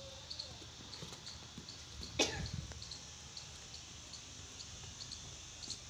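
A single short cough about two seconds in, over faint, evenly repeated high chirps in the background.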